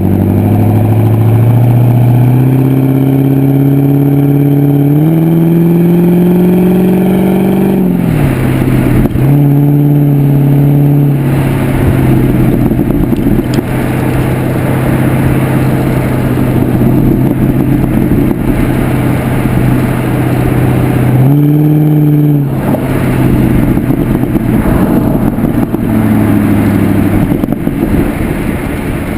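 Pontiac G8 GXP's LS3 V8 through a Corsa exhaust while driving: the exhaust note rises in steps over the first several seconds, falls away, then holds steady at cruise, with a short rise in revs past the twenty-second mark.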